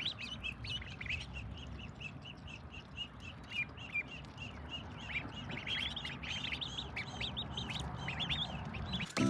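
A group of ducklings peeping, many short high chirps overlapping several times a second.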